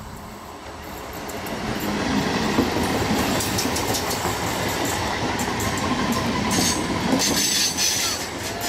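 A 12-coach electric multiple-unit (EMU) local train passing at speed. The noise builds over the first two seconds into a steady rush of steel wheels on the rails, with rapid clattering over the rail joints. Near the end comes a high-pitched metallic wheel squeal on the curve.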